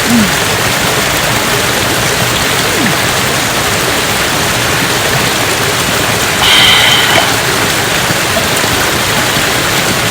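Mountain stream rushing steadily. A short high-pitched sound with several tones cuts in about six and a half seconds in and lasts under a second.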